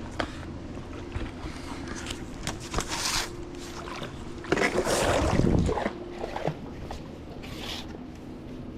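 A pool brush on a telescopic pole swishing and scraping through the water in strokes, the loudest stroke about five seconds in, over a steady low hum.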